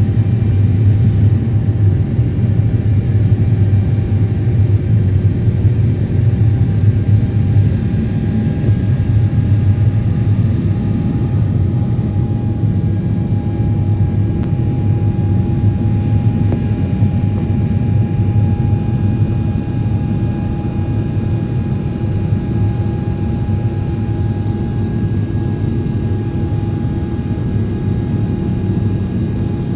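Jet airliner's engines heard from inside the cabin at high thrust: a steady, loud low rumble with a constant whine on top, easing slightly in the second half.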